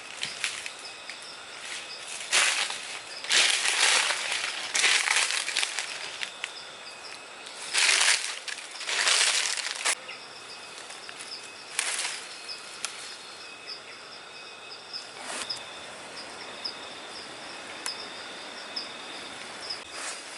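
Leaves and plants rustling in irregular bursts as someone moves through garden vegetation on foot, over steady high-pitched insect chirping.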